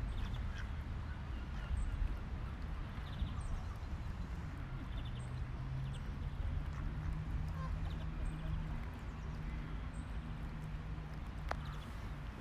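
Birds calling over a steady low rumble, with a short high call that repeats about every two seconds.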